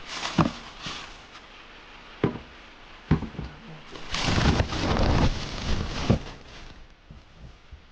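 Hand tools being handled: a few separate knocks and clunks, then about two seconds of rattling and scraping, ending in one more knock.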